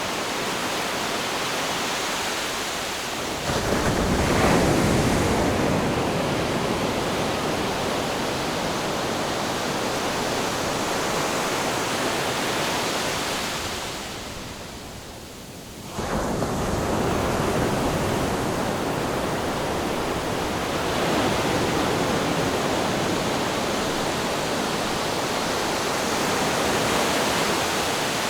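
Ocean surf, a continuous wash of breaking waves. Sudden louder surges come about three and a half seconds in and again about sixteen seconds in, with a brief quieter lull just before the second.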